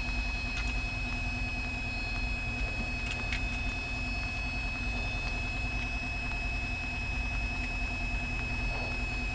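Cessna 172's engine idling steadily on the ground, heard through the cockpit intercom, with a steady high whine over the low rumble.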